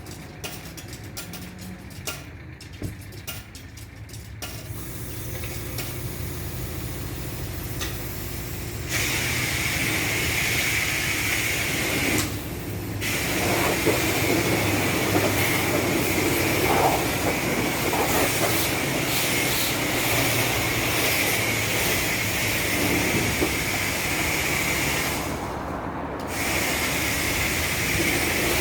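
High-pressure spray wand at a car wash hissing steadily; it starts about a third of the way in and cuts out briefly twice.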